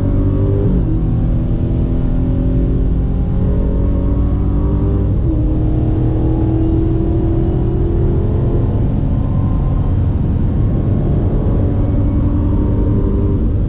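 Dodge Charger Hellcat's supercharged 6.2-litre Hemi V8 under hard acceleration, heard from inside the cabin. The engine note climbs steadily, with brief drops at upshifts about a second in and about five seconds in.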